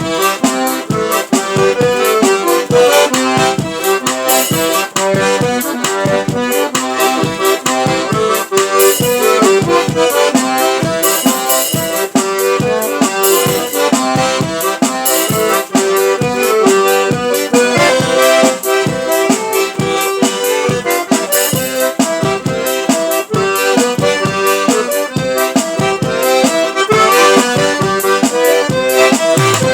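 Accordion (sanfona) playing a lively Brazilian 'moda de fogueira' folk tune, a melody over a steady pulsing bass-and-chord accompaniment.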